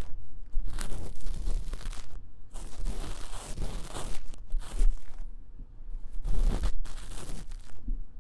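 Ear-cleaning tool scratching fast and vigorously in the silicone ear of a 3Dio binaural microphone, in dense scratchy strokes broken by short pauses.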